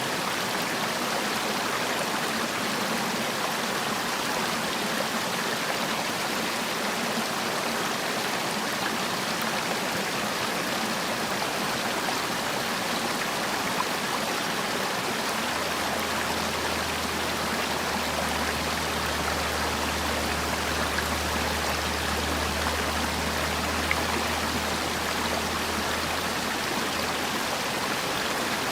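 Valley stream water flowing, a steady, even rush with no breaks.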